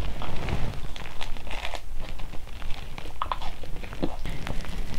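Close-miked eating of a pizza slice topped with greens and edible flowers: biting and chewing, with many small irregular clicks and crackles from the crust and mouth.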